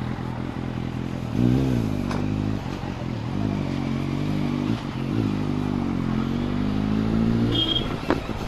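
Motorcycle engine running under way. About one and a half seconds in, its pitch jumps up, then falls and rises again several times as the revs change, settling back lower near the end.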